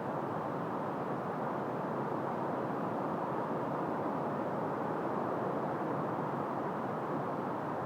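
Steady wind blowing through trees, an even rushing noise with no gusts or breaks.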